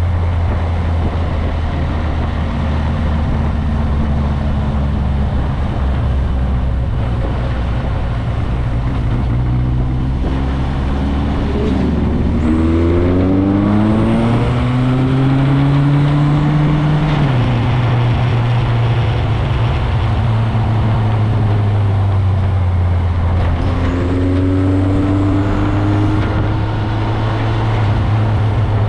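Motorcycle engine running while riding, with wind noise on the camera's microphone. The engine pitch rises as the bike accelerates about halfway through, drops back, and rises again near the end.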